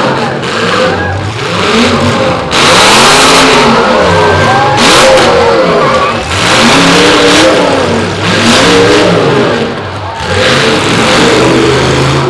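Several demolition derby cars' engines revving hard and dropping back again and again, rising and falling in pitch as the cars lunge and back into one another.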